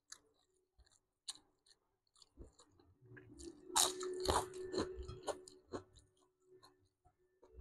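A person chewing and crunching a mouthful of grilled gourami and rice close to a clip-on mic. Scattered soft clicks come first, and the crunching is loudest a little past the middle.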